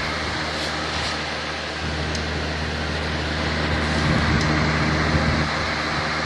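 Lasko box fan running steadily with a low hum under its air noise, its airflow 75% blocked by cardboard. It gets a little louder and rougher for about a second and a half, starting about four seconds in.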